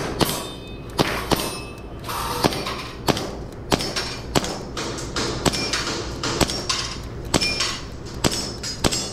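EMG Staccato C2 2011 gas blowback airsoft pistol firing a string of over a dozen sharp shots, irregularly spaced about half a second to a second apart, while a target course is shot.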